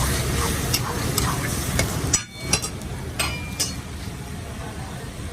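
Chicken karahi frying in a wok, with a metal ladle clinking and scraping against the pan as it is stirred. The sound drops briefly about two seconds in.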